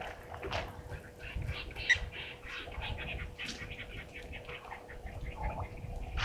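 Wild birds calling around a waterhole, a quick run of short chirping notes with a clearer single call about two seconds in, over a faint steady electrical hum.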